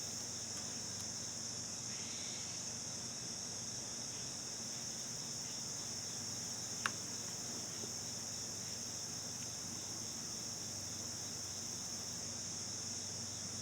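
Steady, unbroken chorus of crickets, with a faint low hum beneath it and a single small click about seven seconds in.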